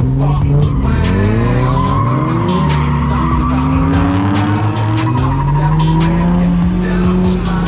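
Drift car's engine revving up and down hard, with tyres squealing as the car slides sideways.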